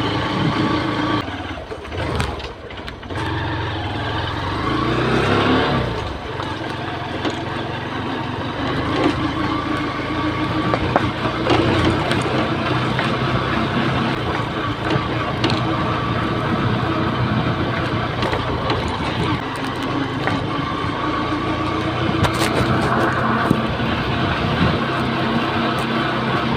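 Honda New Megapro motorcycle's single-cylinder four-stroke engine running under way. The engine speed drops briefly about two seconds in, then rises around five seconds.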